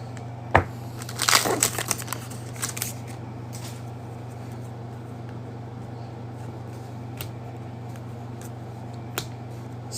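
Trading cards and a plastic pack wrapper being handled: a sharp click about half a second in and a few brief crinkling rustles in the first three seconds, then a few small clicks over a steady low hum.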